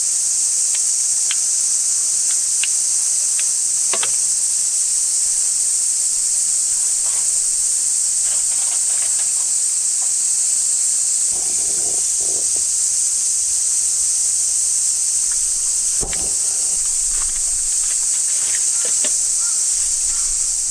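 Chorus of cicadas: a steady, high-pitched drone that never lets up. A few faint clicks and a short knock about three-quarters of the way through.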